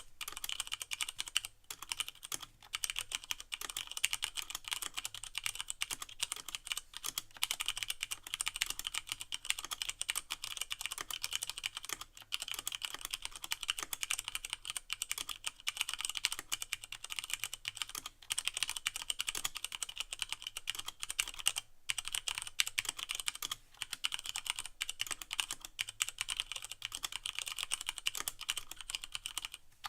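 Continuous fast typing on a Leopold FC660M mechanical keyboard with Cherry MX Brown switches and no O-rings, a dense run of keystroke clacks with brief pauses here and there.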